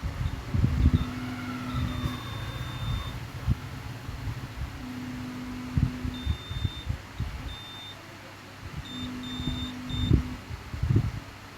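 Short high electronic beeps in uneven runs, along with a low hum that sounds for a second or two at a time and then stops, about every four seconds. Scattered dull knocks of handling run under both.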